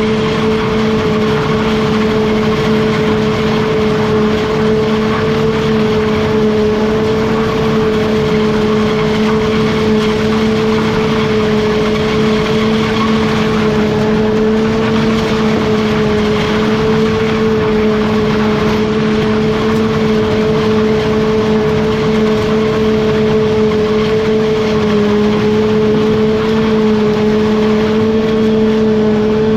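Heavy farm machinery engine running at a steady speed: a constant drone with a strong, unchanging hum.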